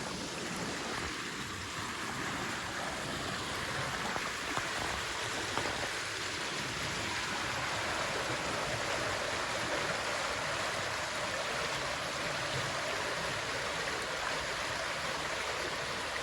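Creek water flowing steadily, a continuous rushing with no breaks.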